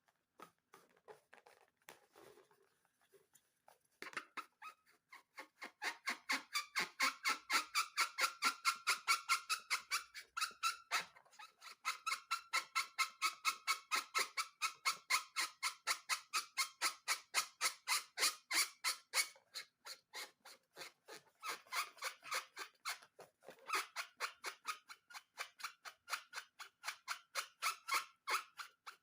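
Rapid, rhythmic squeaky squelching, about five strokes a second, from a slime-filled balloon being squeezed and worked by hand. It starts about four seconds in and pauses briefly twice near the end.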